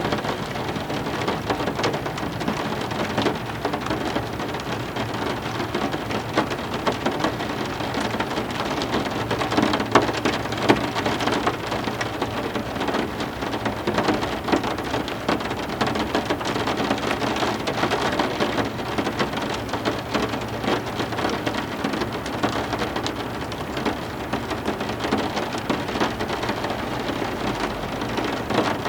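Heavy rain falling steadily, a dense mass of individual drop hits on hard surfaces.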